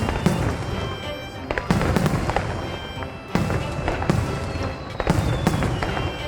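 Aerial fireworks bursting in quick succession, with sharp bangs, crackle and a low rumble after the big shells, over music.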